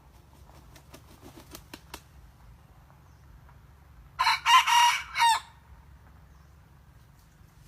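Red junglefowl rooster crowing once: a short crow of about a second, broken into a few notes, from a young cock learning to crow. A few faint clicks come before it.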